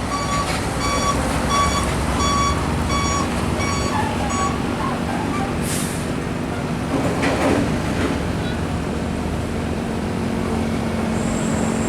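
Heavy tanker trucks running past in traffic, engines rumbling. A truck's electronic warning beeper sounds about every 0.7 s for the first four or five seconds, and a short hiss of air from an air brake comes about halfway through.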